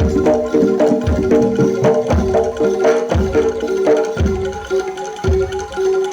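Live jaranan dor ensemble playing: a gamelan-style melody of struck, pitched metal tones over deep bass-drum beats about once a second, with lighter drum strokes between.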